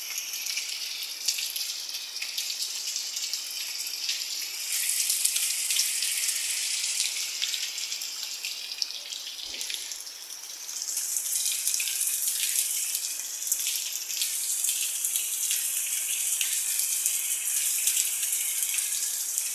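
Rain falling with a dense patter of drops; it grows heavier about five seconds in, eases a little near the middle, then picks up again.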